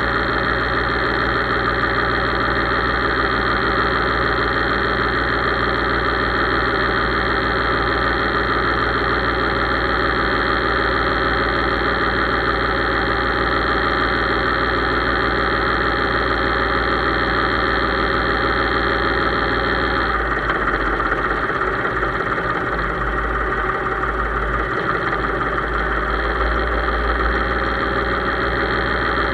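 Case IH 3220 tractor engine running steadily. About two-thirds of the way through its note changes: a high whine drops away and the low rumble shifts.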